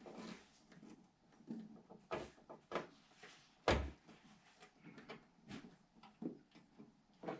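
Scattered clicks and knocks of computer parts and tools being handled during a PC build, with one sharper thump a little past the middle.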